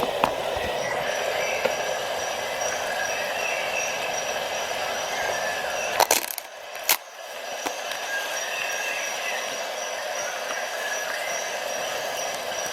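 Steady background noise with a faint high whine, broken near the middle by two sharp clicks about a second apart.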